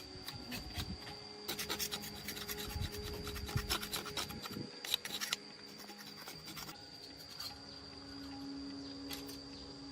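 Scraping and rasping strokes of hand work on a part, coming in quick runs that are densest in the first half and thin out later.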